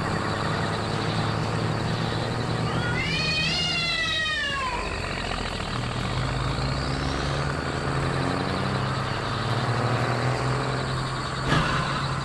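Steady engine hum of a cartoon truck, with a short wavering pitched call about three seconds in and a sharp click near the end.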